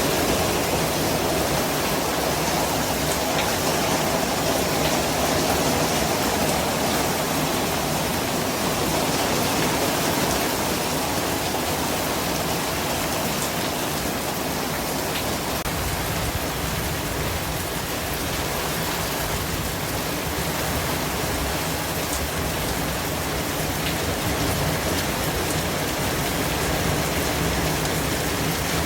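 Steady white-noise track: an even, rain-like rushing hiss with a few faint ticks, holding the same level throughout.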